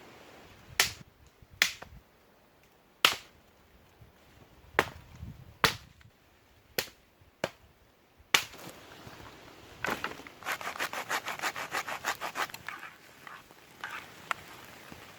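Wood being worked by hand: a series of sharp single chopping knocks, a second or so apart, then a quick run of rapid, even sawing strokes, about five a second, for a couple of seconds.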